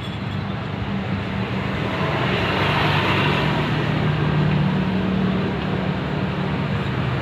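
Ketinting longtail boat engine running steadily, its note growing louder and harsher about two seconds in as it speeds up.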